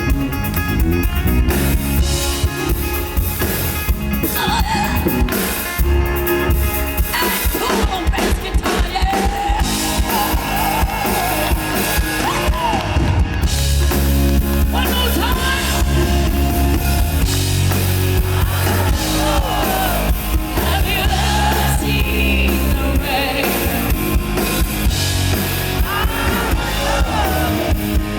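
Live rock band playing with drum kit, bass and guitar, and a voice singing in wavering, sliding lines over the band.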